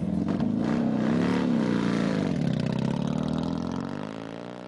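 Motorcycle engine running and revving, its pitch rising and falling briefly, then fading out near the end.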